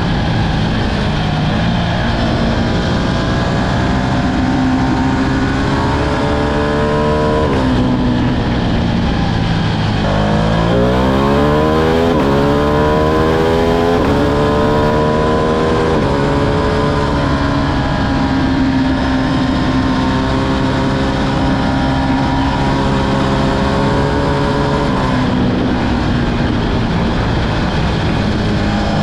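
Ducati Streetfighter V2's 955 cc L-twin engine pulling under throttle while riding. The revs climb and drop sharply about eight seconds in, then climb steeply from low revs around ten seconds in and settle to a steady cruise.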